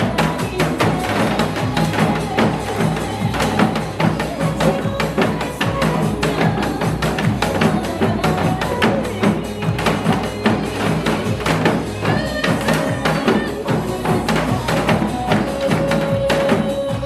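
Janggu drums played in a group along with a recorded trot backing track: quick, dense drum strokes over a steady beat and melody.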